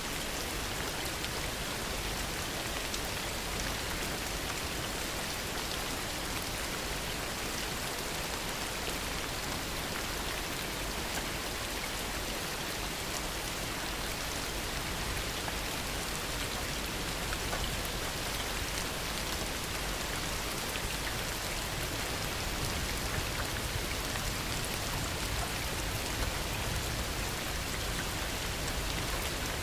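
Heavy rain falling steadily: a dense, even hiss of countless drops striking surfaces, with no thunder.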